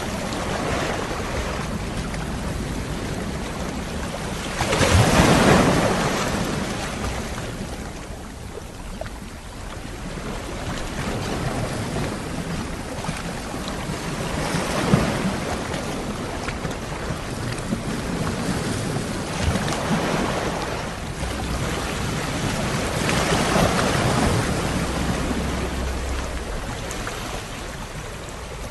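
Sea waves breaking and washing on a shore, coming in swells every several seconds with the biggest about five seconds in, over a low rumble of wind.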